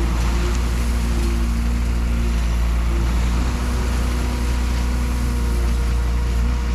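Large vehicle engine running steadily, heavy and low, with a few steady humming tones above it.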